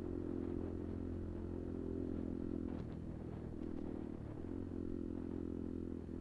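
Kuba Black Cat motorcycle engine running steadily under way, easing off briefly about three and again about four seconds in.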